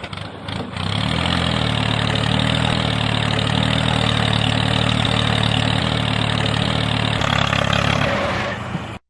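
A small engine running steadily, with a low, even hum under a noisy buzz; it rises over the first second and dies away near the end.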